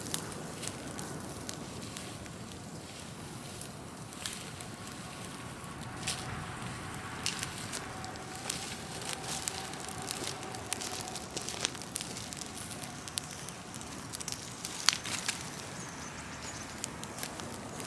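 Large open bonfire of cut trees, branches and leaves burning, crackling with frequent sharp pops over a steady rush of flame; one louder pop about fifteen seconds in.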